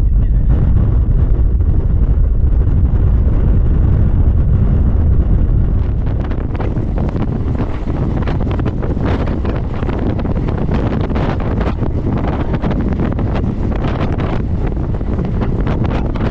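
Wind buffeting the microphone aboard a moving MEMU electric train, over a steady low rumble. About six seconds in it eases a little and short clicks come through.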